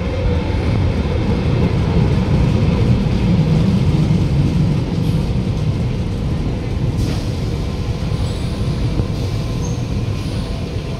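Tyne & Wear Metro Metrocar electric train running into the platform at close range: a heavy rumble of wheels on rail that peaks a few seconds in as the cars pass, then eases a little, with a few faint high squeaks near the end.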